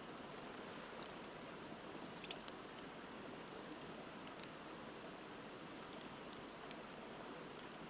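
Wood bonfire crackling with scattered small pops, the sharpest about two seconds in, over the steady rush of a river.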